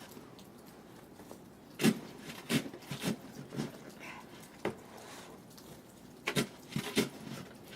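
About eight short, sharp knocks or crunches at irregular intervals, in two clusters, with near-quiet between them.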